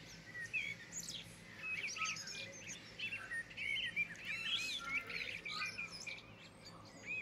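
Many small birds chirping and twittering, with short rising and falling calls overlapping throughout over a faint steady low hum.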